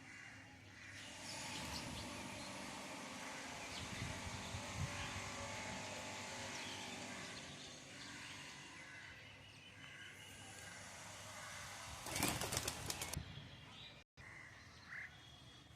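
A bird's wings flapping in a short, rapid burst near the end, the loudest sound here, over faint chirping of small garden birds.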